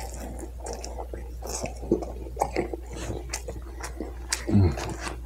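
Close-miked chewing and biting of greasy fried food, a run of irregular wet mouth clicks and smacks. A brief low vocal hum comes about four and a half seconds in.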